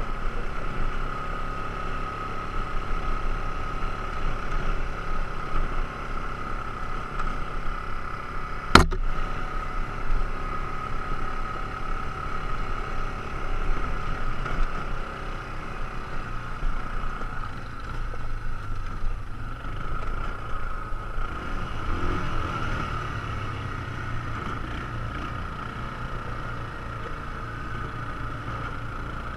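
ATV engine running while riding, with a steady whine over a low rumble. A single sharp click about nine seconds in.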